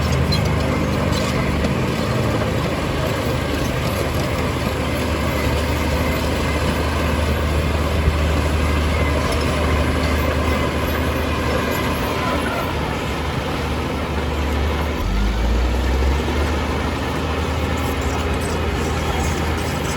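Heavy diesel engine of earth-moving machinery running steadily under load, with a deep low note. About three-quarters of the way through, the engine note drops and changes pitch.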